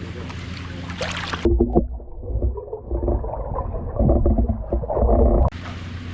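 Sea otter crunching and cracking shellfish shells with its teeth: a muffled, irregular run of loud crunches from about a second and a half in, cut off suddenly near the end, over a steady low hum.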